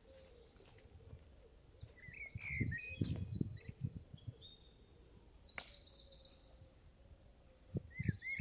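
Songbirds singing in woodland: high, rapid trills, with short chirping notes around them and again near the end. A few low thumps sit underneath.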